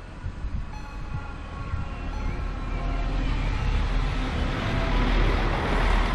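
Polregio SA138 diesel multiple unit running over a closed level crossing, its rumble building and loudest near the end. The crossing's electronic warning bell keeps sounding short repeated tones, clearest in the first half.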